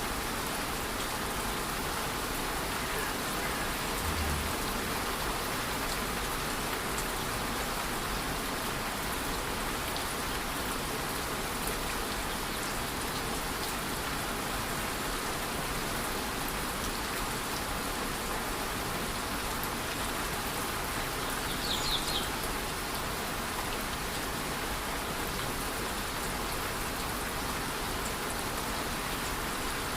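Steady, even rush of a rainforest waterfall with light rain falling, and a short high chirp about two-thirds of the way in.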